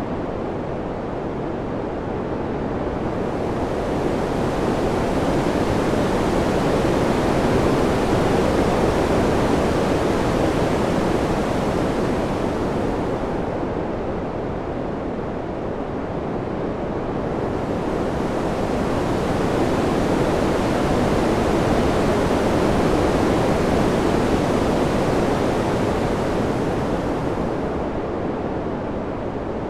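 Wind ambience: an even rushing noise that slowly swells and eases, rising to a fuller, brighter peak twice, about eight and twenty-two seconds in.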